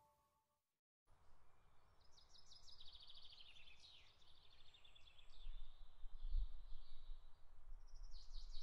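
A songbird singing: quick trilled phrases that step down in pitch, starting about a second in, with another phrase near the end. A low rumble sits underneath and grows louder in the second half.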